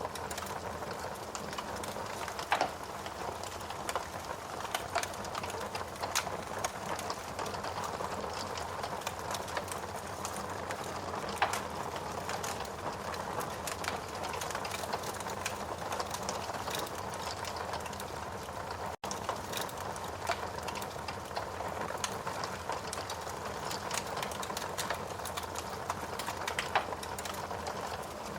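Wood fire burning in a fireplace: a steady rushing hiss dense with small crackles and pops, with a few louder snaps scattered through. The sound drops out for an instant about two-thirds of the way through.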